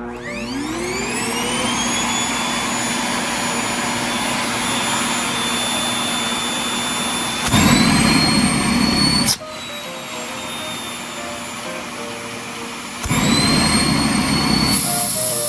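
Vacuum cleaner switched on, its motor whine rising as it spins up and then running steadily with a rush of air. Twice, from about seven and a half seconds to nine and a half and again near the end, it gets louder and the whine steps up in pitch, then drops back.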